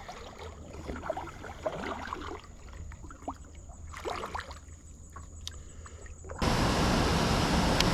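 Faint small splashes and water lapping around a kayak on calm water; about six and a half seconds in, a loud steady rushing hiss cuts in abruptly.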